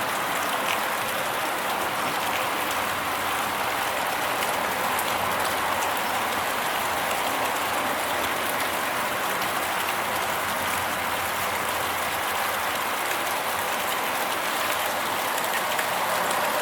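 Steady rain: a dense, even hiss of falling drops with fine pattering ticks, starting abruptly.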